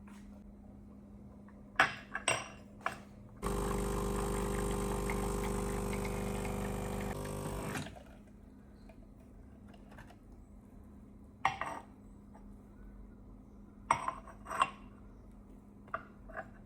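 Kitchen clatter: a few clinks and knocks of dishes and cutlery. About three seconds in, a small electric appliance runs steadily for about four seconds.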